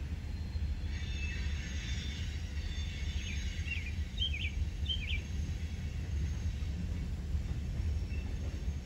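Outdoor ambience: a steady low rumble, with a few short bird chirps from about three to five seconds in.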